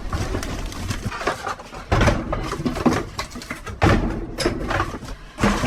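Trash being rummaged through by hand in a dumpster: rustling and shifting of bags and office items, with a few louder knocks or clatters, about two, four and five and a half seconds in.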